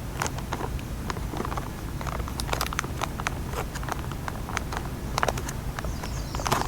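Irregular light clicks and taps, coming more thickly from about two and a half seconds in, over a steady low rumble.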